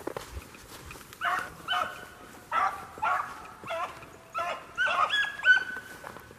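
Rabbit-hunting hounds giving tongue, barking and baying repeatedly as they run a rabbit's trail. The barks start about a second in and come one after another, the later ones drawn out into short bawls.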